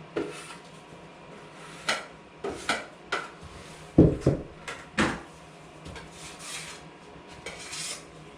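Metal tools being handled: a run of separate clanks and knocks, the loudest about four and five seconds in, then a couple of short scrapes near the end.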